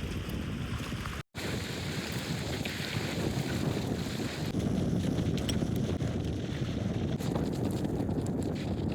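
Wind blowing across the microphone: a steady, low-heavy noise, broken by a brief dropout about a second in.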